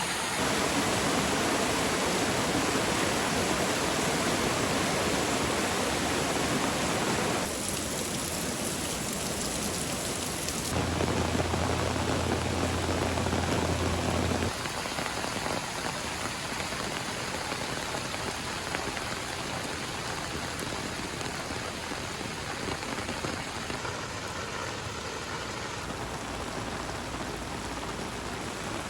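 Steady noise of heavy running water in a flood, its tone shifting abruptly several times. A low hum joins it for a few seconds near the middle.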